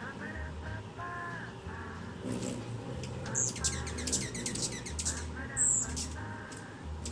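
Outdoor birds calling: a run of short, harsh, repeated calls, with a couple of brief high-pitched chirps about three and a half and five and a half seconds in.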